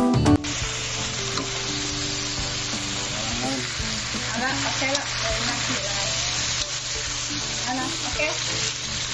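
Diced potatoes and meat sizzling as they stir-fry in a stainless-steel wok, a slotted metal spatula turning and scraping them against the pan. A short bit of music cuts off just after the start.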